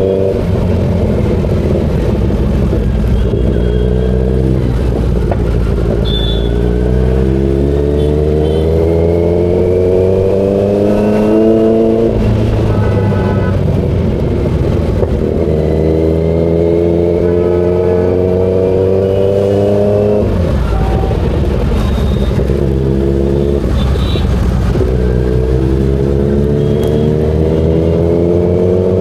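Kawasaki Z900's inline-four engine accelerating through the gears on a ride. The pitch climbs in long sweeps and drops sharply at each upshift, about 12 and 20 seconds in, then climbs again.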